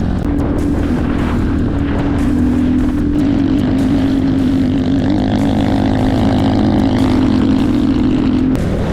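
Enduro motorcycle engine running at a steady, slightly wavering pitch, stopping shortly before the end.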